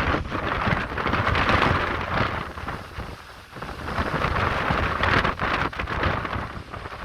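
Indian Ocean waves surging and breaking against coastal rocks, a rushing hiss of churning water that swells twice with a lull about three seconds in, with wind rumbling on the microphone underneath.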